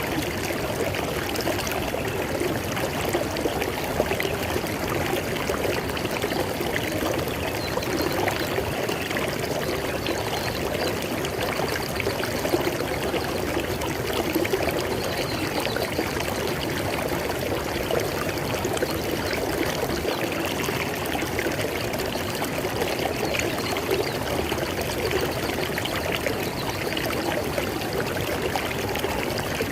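River water flowing steadily over stones, an even rushing with fine splashing and trickling.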